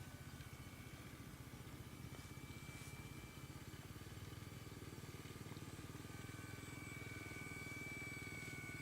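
Cessna 182's piston engine and propeller running steadily, a low pulsing drone with a thin steady whine above it.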